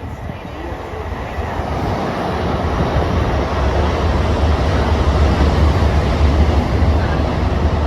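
Long Island Rail Road train running through the station: a deep rumble with wheel and rail noise that builds over about three seconds and then stays loud and steady.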